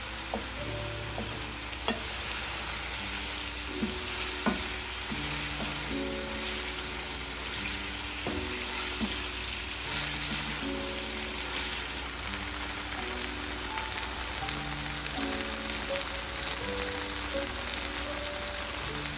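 Silken tofu cubes and doubanjiang sizzling in hot oil in a nonstick frying pan, stirred with a wooden spatula, with a few sharp knocks of the spatula against the pan. Soft background music with held notes plays under the sizzle.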